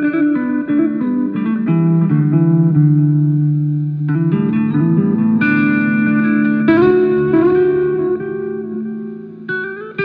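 Guitar playing: single plucked notes and held chords ringing out, with a new phrase starting every few seconds.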